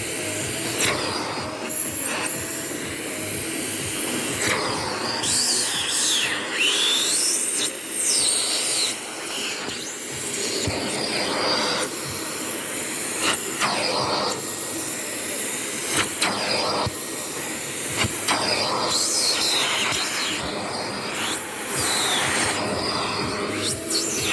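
Vacuum cleaner running on upholstered cinema seats, with a steady suction hiss and whistling tones that rise and fall as the nozzle is worked over the fabric and into the gaps.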